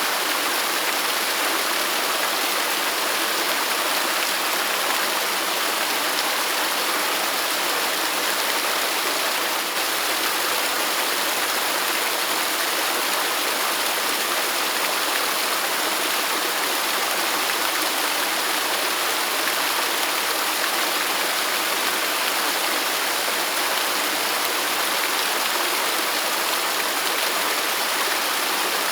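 Waterfall: steady, unbroken rushing and splashing of falling water, hissy and bright with little deep rumble.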